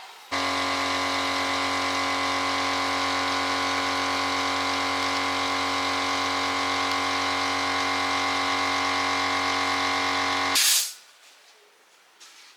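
Repaired electric angle grinder running at steady full speed with no load, a constant motor whine, then switched off about ten seconds later and quickly winding down.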